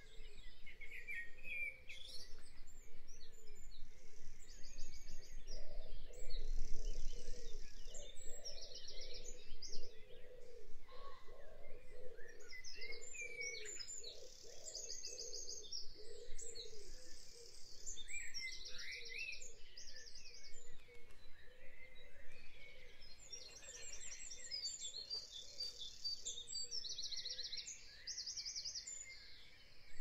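Birds chirping and singing fast, repeated high trills at intervals over a steady low background noise.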